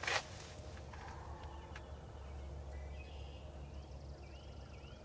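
Quiet spring woods ambience with faint, scattered small bird chirps and a soft trill, after a brief soft noise right at the start.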